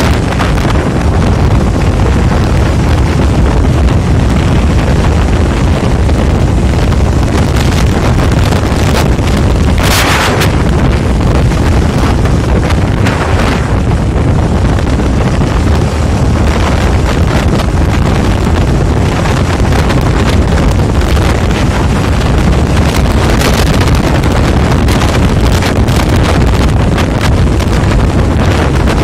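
Loud, steady wind rumble buffeting the microphone, with brief hissing swells about ten and thirteen seconds in.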